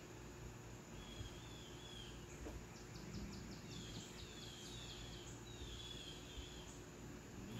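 Faint birdsong: repeated wavering high chirps, with a quick run of short notes about three seconds in, over steady low background noise.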